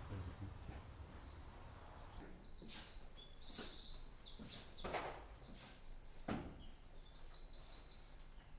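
Birds chirping in quick runs of short, high notes, with a few soft knocks among them.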